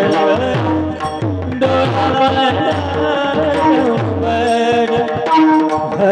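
Marathi Varkari bhajan music: a hand drum plays a steady rhythm, its low strokes falling in pitch, under held instrumental notes and a singing voice.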